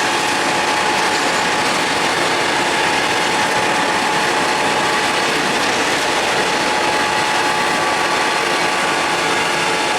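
A train running past: a loud, steady clatter of wheels on rails, with a faint steady whine on top.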